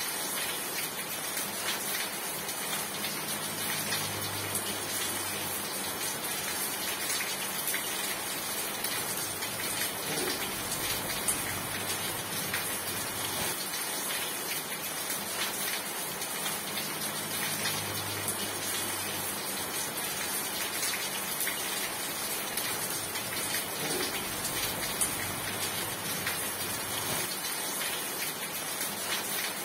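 Steady rain falling: an even hiss of rain with scattered individual drop ticks.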